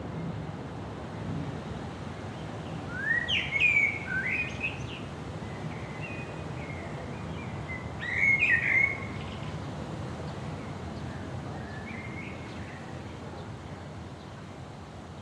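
A songbird singing short, warbled phrases: a loud burst about three seconds in, another about eight seconds in, and a fainter one later, over a steady low outdoor rumble.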